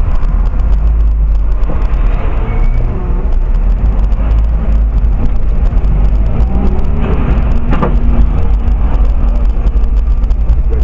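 Road and engine noise of a moving car heard from inside, a loud steady low rumble, with a brief knock about eight seconds in.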